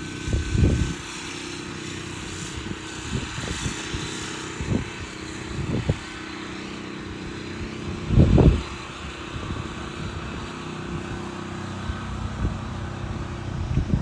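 Vehicle engine running steadily, with a few short low thumps, the strongest about half a second in and again about eight seconds in.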